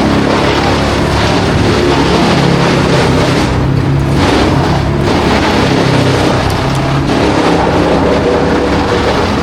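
Engine running loud and steady throughout, with a slight rise and fall in load.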